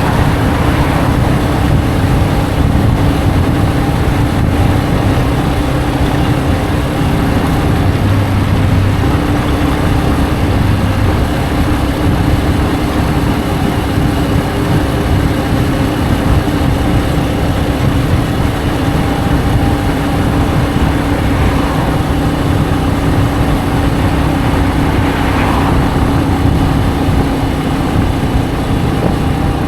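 Benelli BN125's single-cylinder 125 cc four-stroke engine running steadily, at a constant engine speed throughout, over a steady rushing hiss.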